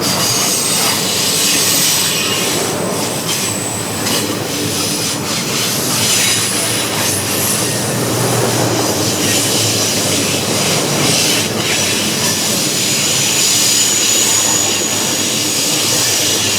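Railcars of a passing train rolling by on steel rails: a steady rolling noise with thin, high wheel squeal over it.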